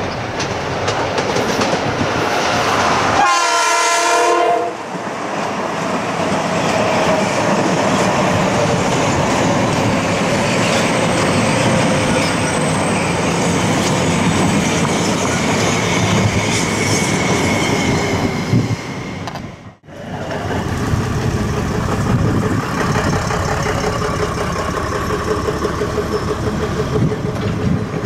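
Metro-North commuter train sounding a short horn blast about three seconds in, then running past with loud steady rumble and wheel clatter. The sound drops out abruptly for a moment about two-thirds of the way through, then the rumbling noise carries on.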